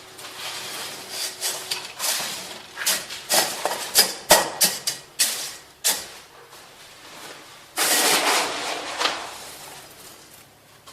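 Masonry hand work on a tiled fireplace: an uneven run of scrapes and sharp knocks of tools against mortar and tile, with a longer scrape about eight seconds in.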